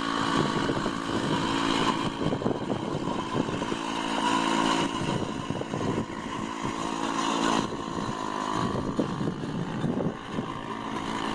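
Small engine of a student-built car running steadily, its note shifting about two-thirds of the way through.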